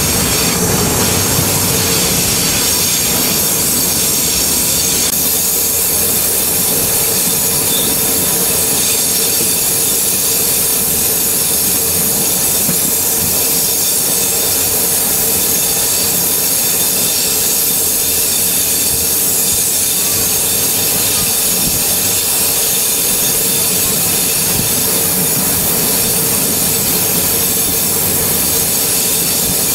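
Passenger train running steadily along the line, heard from inside the carriage: a continuous rumble and hiss of wheels on rail, with a faint steady tone underneath.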